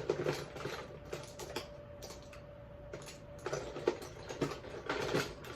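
Light, irregular clicks and taps of makeup tools being handled, such as brushes and an eyeshadow palette, busier near the start and again towards the end, over a faint steady hum.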